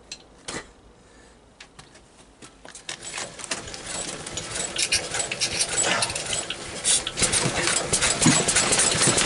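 Small motor driving a belt over improvised plastic pulleys: a few light clicks, then from about three seconds in a rattling, clicking run that grows steadily louder as the drive gets going.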